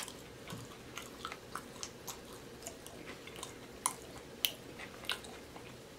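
A person chewing fried food close to the microphone: quiet, irregular wet mouth clicks and smacks, two a little louder just past the middle.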